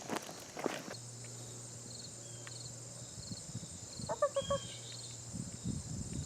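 Insects chirping: a steady high drone with a short, regular chirp repeating about twice a second. Footsteps sound in the first second and again near the end, and a brief pitched animal call comes about four seconds in.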